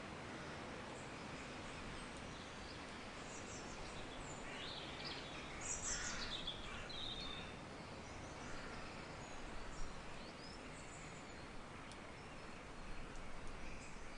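Nature-sound ambience: a steady soft hiss with small birds chirping now and then, several calls close together about five to seven seconds in.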